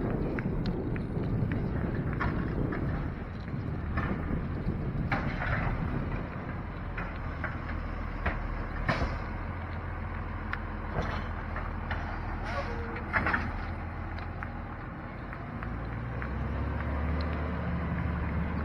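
Heavy truck engine running steadily, with scattered sharp metallic clanks and clicks; the engine grows louder near the end.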